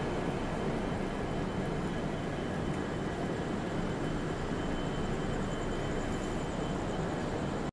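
Passenger train rolling slowly out of a station, heard from the coach doorway as a steady, even running noise.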